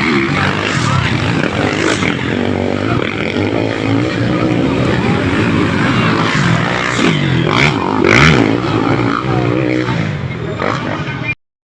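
Motocross dirt bikes' engines running and revving, their pitch rising and falling, with some voices mixed in; the sound cuts off suddenly near the end.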